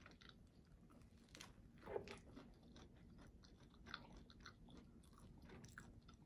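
Faint chewing of a meat bun toasted crisp in a hot sandwich maker, a little louder about two seconds in and again near four seconds.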